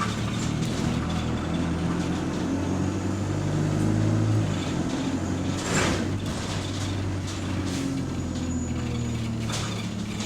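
Bus engine and drivetrain heard from inside the passenger saloon while the bus is under way, the engine note shifting in pitch as it pulls. A brief hiss cuts across it about six seconds in.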